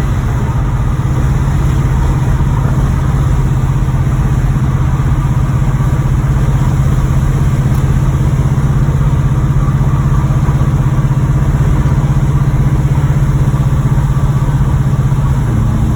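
1986 Chevrolet Monte Carlo SS's V8 engine running steadily while the car is driven, its note dropping slightly near the end. The owner hears the bottom end knocking from a bad connecting rod.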